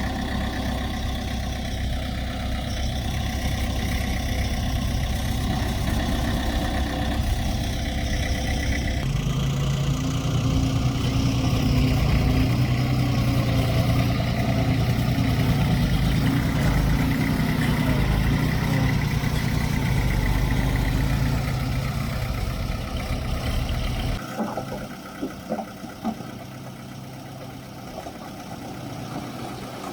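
Heavy diesel engines of earthmoving machinery running. The engine sound grows louder and deeper about nine seconds in, then falls away sharply near the end to a quieter running engine with a few knocks.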